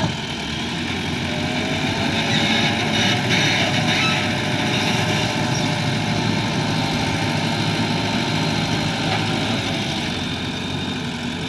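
Heavy vehicle's diesel engine running steadily at an even, low speed.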